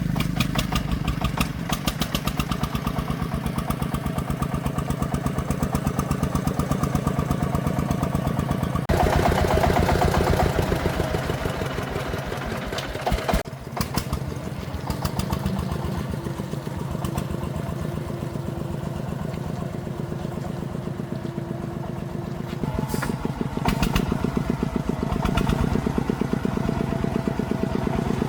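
Single-cylinder diesel engine of a công nông farm truck running under way with a rapid, even chugging. It grows louder and rougher about a third of the way through, dips briefly about halfway, and picks up again near the end.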